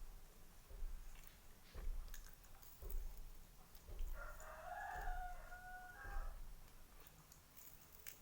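Close-miked chewing of soft fried snacks, with about one chew a second. A rooster crows in the background for about two seconds midway.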